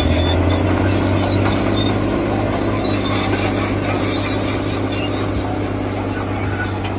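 Model RC construction machine running: a steady high-pitched whine over a constant low hum, typical of its electric motor and hydraulic pump or gearbox.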